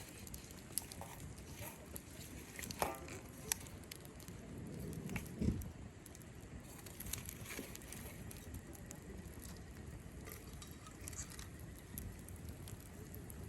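Cherry-wood campfire crackling, with scattered sharp pops over a low steady rush; a brief louder rush swells up about five seconds in, ending on the loudest pop.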